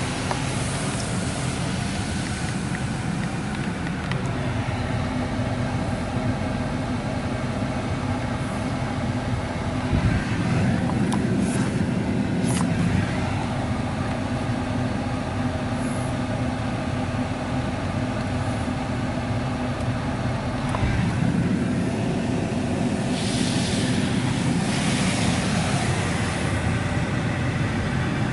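Washworld Razor touchless car wash running, heard from inside the car's cabin: a steady machine hum with water spraying onto the body and glass. The spray swells louder a couple of times as it passes over.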